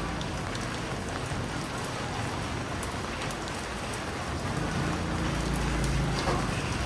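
Steady rain falling on a street, with a motor vehicle's engine rumbling past about five seconds in.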